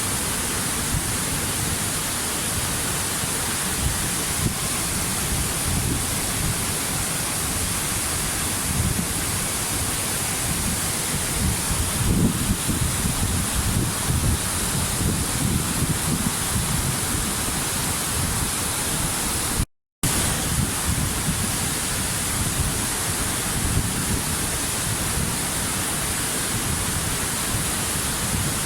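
Waterfall: steady, even rush of falling water, with a split-second dropout about two-thirds of the way through.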